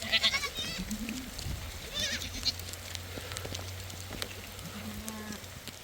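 Sheep bleating: a quavering high bleat at the start, another about two seconds in, and a lower one near the end.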